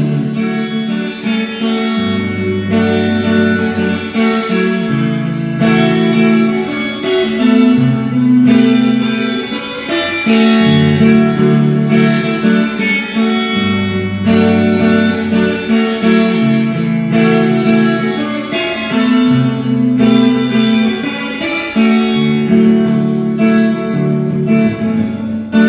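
Instrumental guitar break in a live song: strummed and picked chords ringing over a steady bass line, the chord changing every second or two.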